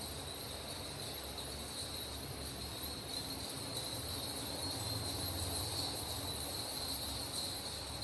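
Metal coins on a belly dance hip scarf jingling together in a steady, continuous shimmer, swelling a little past the middle.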